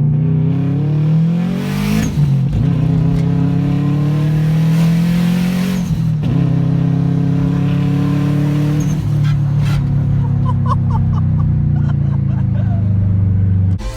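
Turbocharged 2004 Subaru WRX's EJ205 flat-four, fitted with a Garrett GTX3576R turbo, pulling hard through the gears. The engine pitch climbs, breaks at shifts about two and six seconds in, then slowly falls as it eases off. It cuts off abruptly near the end.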